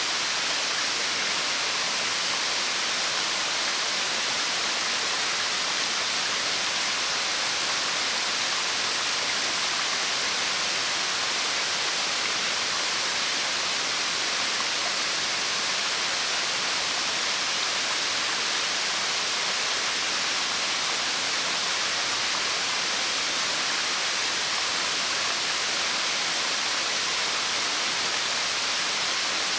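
A waterfall about 30 m high, splitting into several streams, pouring steadily. It makes a constant, even rush of falling water that is more hiss than rumble.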